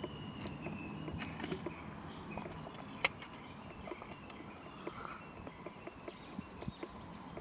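Outdoor woodland ambience with short, faint bird chirps and scattered light clicks and knocks, one sharper click about three seconds in.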